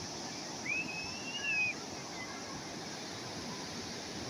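Calm sea waves washing steadily on the shore. About a second in, a single high call arches briefly over the surf.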